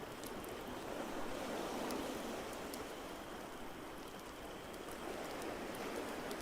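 Ocean waves washing in slow swells, with sparse sharp crackles of a log fire over them.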